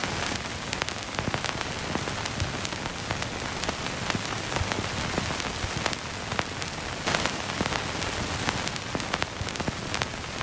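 Steady rain-like hiss, dotted all through with many sharp little ticks and crackles.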